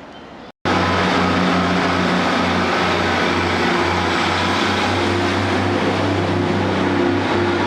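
An abrupt cut about half a second in, then a train running close by, loud and steady, with a low hum that pulses unevenly.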